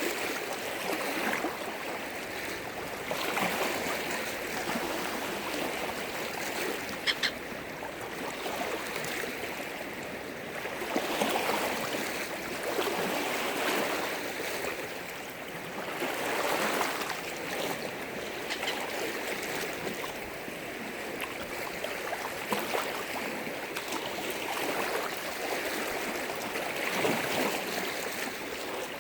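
Waves on a large freshwater lake crashing and splashing, a steady wash that swells and eases in irregular surges.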